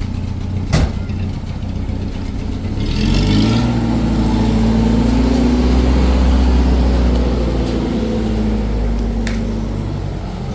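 A vehicle engine running, with a sharp click just under a second in. The revs rise at about three seconds, hold, and ease back down near the end.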